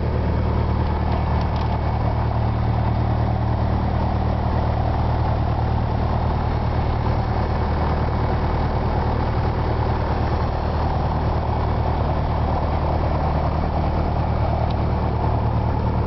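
Single-engine light airplane's piston engine and propeller running steadily, a loud constant drone heard from inside the cabin.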